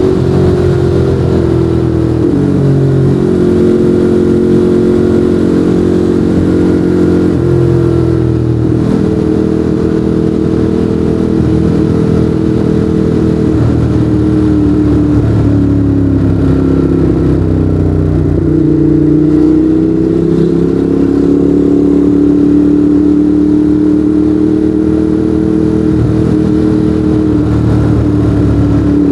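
Ducati Monster 821's L-twin engine running through a Termignoni exhaust while riding, its pitch rising and falling several times as the throttle and gears change.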